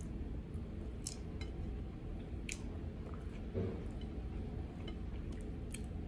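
A person eating: soft chewing with a few sharp little clicks scattered through it and a soft thump midway, over a steady low hum.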